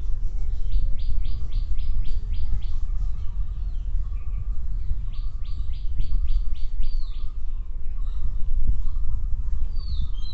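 A small bird singing two phrases, each a quick run of about eight identical high notes at roughly four a second, then a short falling call near the end. Under it is a steady low rumble on the microphone.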